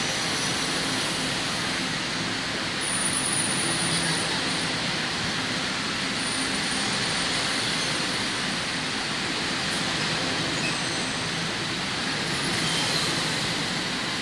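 Passenger train coaches rolling past on an underground platform as the train pulls out of the station, a steady rumble of wheels on rail with brief faint high-pitched wheel squeals about three seconds in and again near the end.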